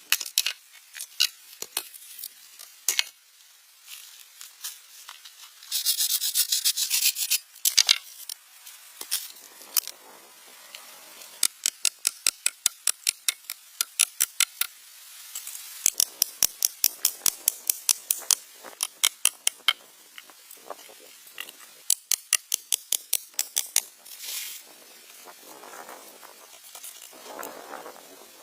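Sharp, crisp taps and clicks, some in steady runs of about three to four a second, from hand work. About six seconds in there is a short rushing scrape, and a few rougher scrapes come near the end.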